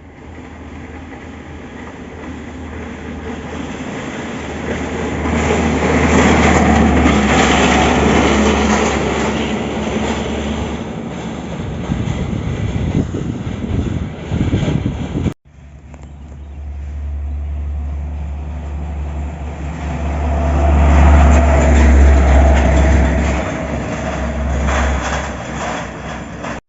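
Heavy diesel car-carrier truck driving past, its low engine drone and road noise swelling and then fading. The sound cuts off abruptly a little past halfway, and a second truck passes the same way.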